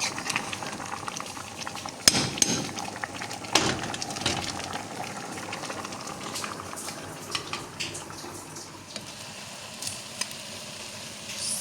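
Cooking sounds: a steady sizzling hiss with scattered clinks and knocks of utensils against pots, the loudest about 2 and 3.5 seconds in.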